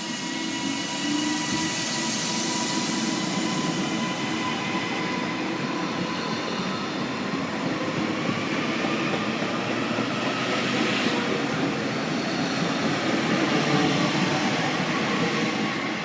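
TransPennine Express Class 397 electric multiple unit passing through the station: a steady rush of wheel and running noise with a thin steady whine, loudest near the end.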